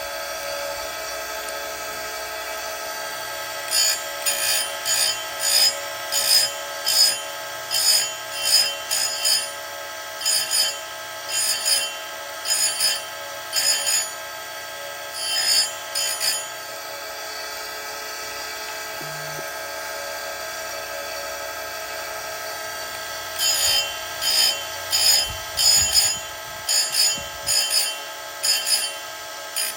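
Oregon 410-120 chain grinder's motor running steadily with a CBN wheel, and short grinding rasps, about two a second, as the wheel is brought down onto the cutters of a .325 chainsaw chain. The grinding stops for several seconds midway, leaving only the motor running, then starts again.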